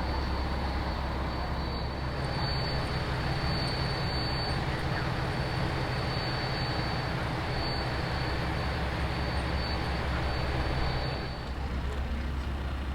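Steady vehicle running noise: a low hum under a thin high whine. It changes abruptly about 11 seconds in, when the whine stops.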